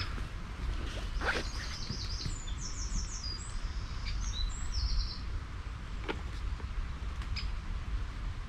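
A small songbird sings one phrase of quick, repeated high trills about a second in, over a steady low rumble and hiss of outdoor ambience. A few faint clicks sound later.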